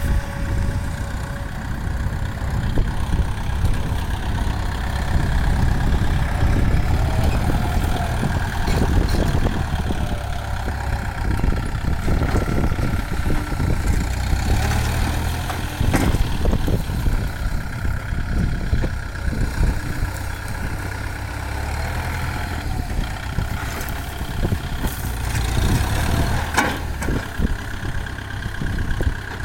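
Kubota farm tractor's diesel engine running steadily, with scattered short knocks and clatter over the engine note.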